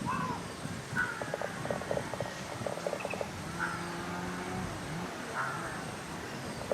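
Natural outdoor ambience with four short bird calls, spaced a second or two apart, over a background of other animal sounds and clicks.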